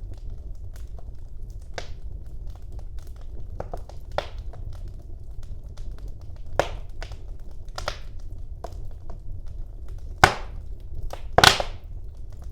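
Fire burning in a fireplace, with a steady low rumble and scattered crackles and pops. Two loud, sharp snaps come near the end.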